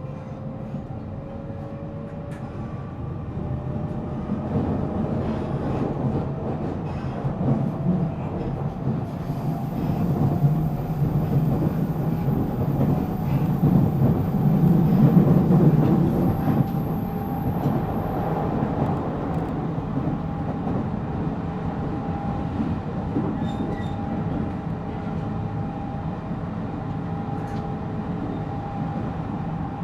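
Interior running sound of a JR Central 313 series electric multiple unit's motor car: wheel and track rumble with a traction-motor whine that rises slowly in pitch as the train picks up speed, then holds steady. The rumble is loudest about halfway through.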